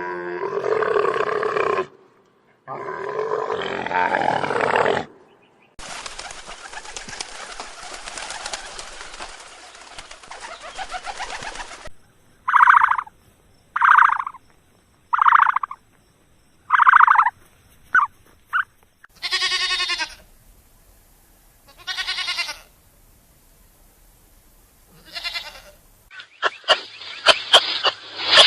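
A string of different animal calls, one after another: two long, low rough calls, then a stretch of hissing noise, a run of five short calls of the same pitch, a few longer calls with pauses between them, and a fast run of clicks near the end.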